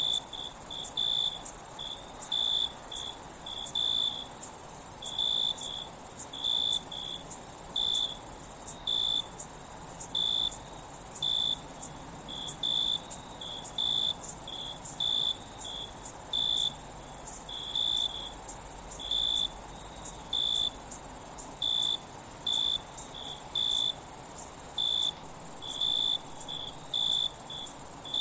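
Night insect chorus: a steady, very high-pitched continuous trill, with crickets chirping over it in short repeated bursts, roughly two chirps a second.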